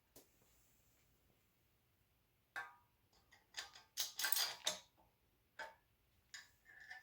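Irregular light clicks and knocks, with a quick cluster of sharper clicks around the middle.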